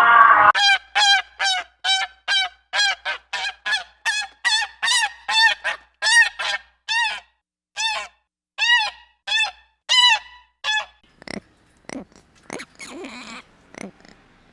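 An animal calling in a rapid series of short, high, arching calls, about two a second, that stop a few seconds before the end, followed by fainter scattered sounds.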